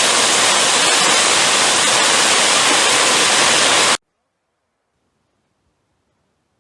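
Loud, steady hiss of a heavy downpour in a squall that cuts off suddenly about four seconds in, leaving near silence.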